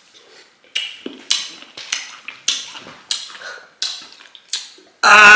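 Chewing a crunchy pickled cucumber close to the microphone: about seven crunches, a little under two a second. Near the end comes a sudden loud, drawn-out vocal cry.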